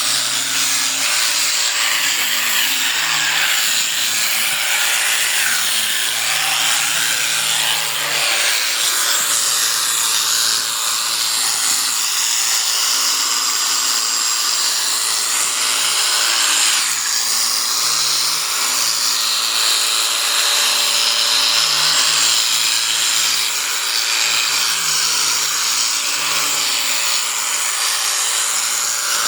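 Electric sheep shears running steadily, a continuous mechanical buzz.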